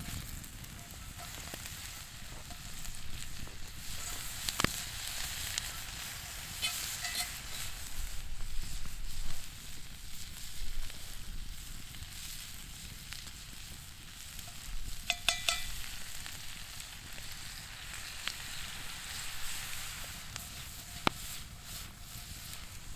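Food sizzling as it cooks over campfire coals, a steady frying hiss, with a few sharp clicks and a couple of short metallic clinks.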